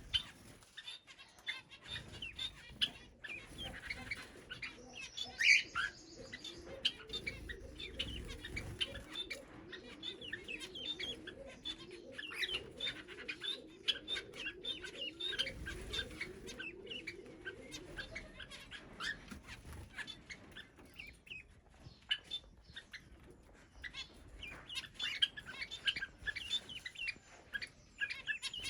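Mixed aviary birds chirping with many short, high calls, one louder call about five seconds in and occasional wing flutters. Through the middle a lower, rapidly repeated call runs under the chirping.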